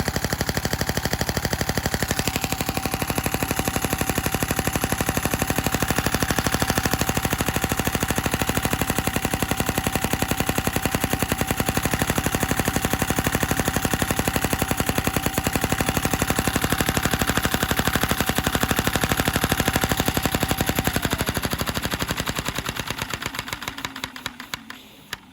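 Lego-built flat-head vacuum engine running fast, a rapid even clatter of plastic parts with a steady whine under it. About 21 seconds in the whine drops in pitch and the clatter slows and fades as the engine runs down to a stop near the end.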